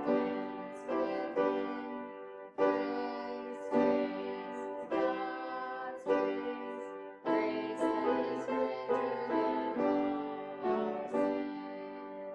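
Piano music: slow, held chords that change every second or so, growing softer toward the end.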